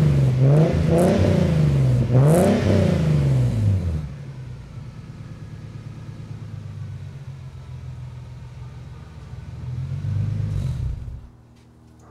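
Nissan 300ZX 3.0 V6 through an aftermarket GReddy exhaust, blipped up and down in quick free revs for the first few seconds, then settling to a steady idle. There is one more small rise near the end, then the sound drops away sharply.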